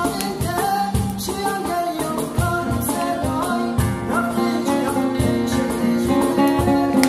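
Kurdish slow song: a voice singing over guitar, with a beat running under it.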